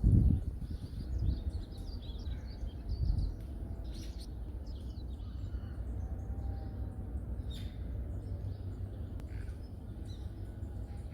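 Small forest birds chirping and twittering in short scattered calls, over a low rumbling noise that is loudest at the start.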